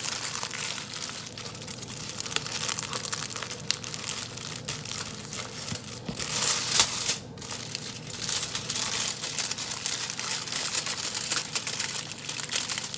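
Aluminium foil crinkling and crackling as it is folded and pressed around a pita bread, with a louder stretch of crumpling about six to seven seconds in.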